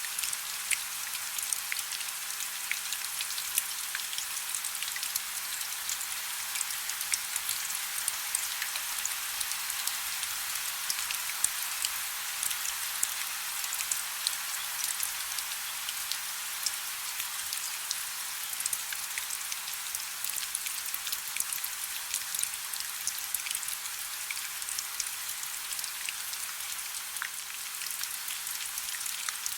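Soft, steady rain: an even hiss with a fine, constant patter of individual drops.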